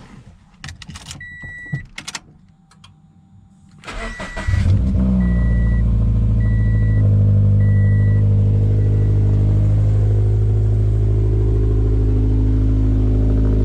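A few clicks and a short chime, then the 2014 Scion FR-S's flat-four engine starts about four seconds in, flares briefly and settles into a steady idle, with a few chime beeps over it. The exhaust is loud because it has a muffler delete in place of a muffler.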